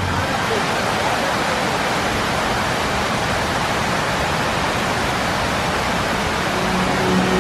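Water jets of a large show fountain spraying and splashing, a steady, even rushing.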